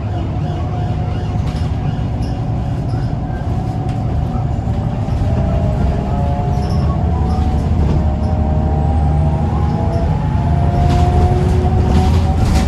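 Scania L94UB bus's engine and driveline working hard under load, a heavy rumble with a whine that slowly rises in pitch as the bus picks up speed. A few short rattles or knocks near the end.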